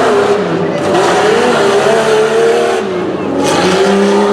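Jeep Cherokee XJ engine revving hard under load on a tough truck course. Its pitch rises and falls with the throttle, drops about three seconds in, then climbs back and holds high.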